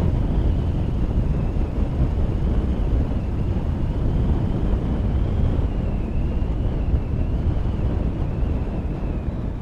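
Motorcycle running along the road, its engine mixed with wind noise on the microphone, steady throughout.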